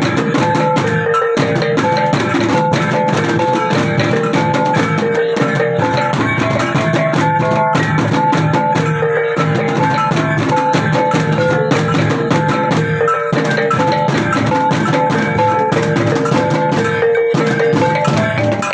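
Percussion ensemble music: drums beating under a repeating pattern of short, pitched struck notes, steady and loud throughout.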